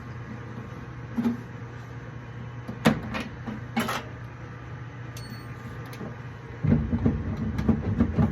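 Parts being handled while an inducer motor is worked on inside a gas furnace: a few separate knocks, then a run of clunking and rattling near the end, over a steady low hum.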